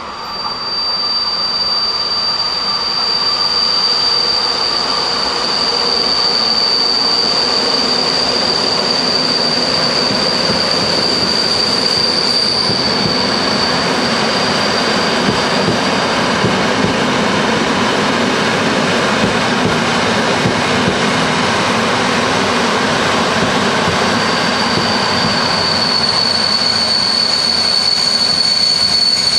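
Vintage FS E 646 electric locomotive and its grey 1959-type passenger carriages rolling slowly into a station platform, louder over the first couple of seconds as they come past. The train gives a steady high-pitched squeal over the rolling noise; the squeal fades about halfway through and comes back near the end.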